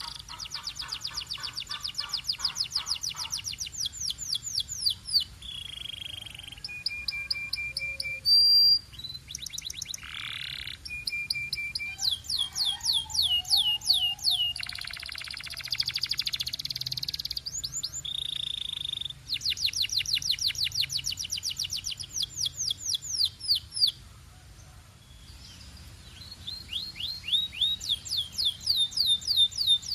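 Canary singing a long, varied song: fast trills of quickly repeated falling notes, held whistled notes, and buzzy rolls, phrase after phrase with short pauses between.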